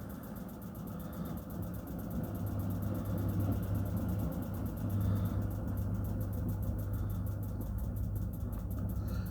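Miele washing machine running: a steady low mechanical hum that grows louder about two seconds in and then holds.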